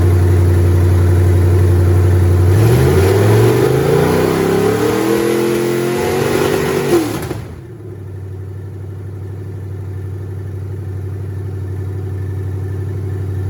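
Rebuilt Ford 428 Cobra Jet big-block V8 on an engine test stand: it idles, then is revved gradually higher for about four seconds, and drops back to idle when the throttle is let off about seven seconds in. It then settles back into a steady idle.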